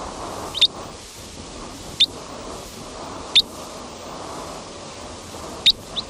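A small bird giving short, sharp, high chirps that drop quickly in pitch, four or five spaced a second or two apart, over a steady hiss of outdoor forest ambience.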